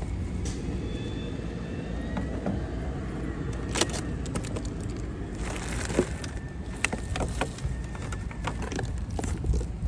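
A steady low engine hum, with scattered clicks and knocks of things being handled over it.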